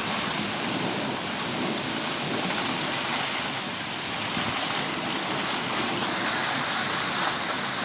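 Thunderstorm rain falling steadily, a dense even hiss of drops with no let-up.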